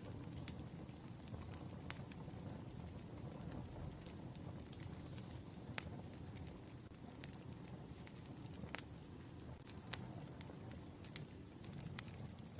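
Wood fire burning, with a steady low rush and irregular sharp crackles and pops from the burning logs.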